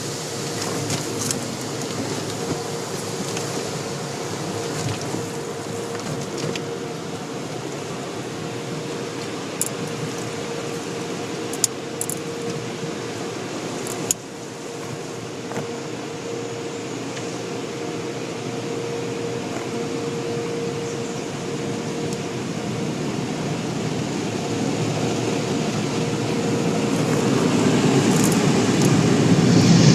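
Automatic car wash machinery running with a steady whirring, rushing hum and a constant mid-pitched tone, a few light clicks partway through, and a low rushing noise that grows louder near the end.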